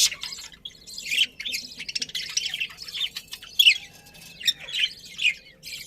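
A flock of budgerigars chirping and chattering, with many short high calls overlapping in an irregular stream.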